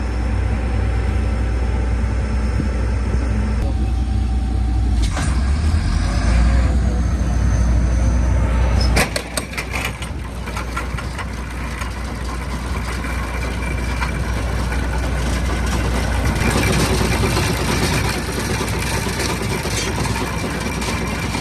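John Deere 9770 STS combine running with its 635F header engaged. About nine seconds in the sound changes suddenly with a burst of clicks, and a busier mechanical clatter carries on after it. The header's shaker (wobble) box has a little bit of chatter to it.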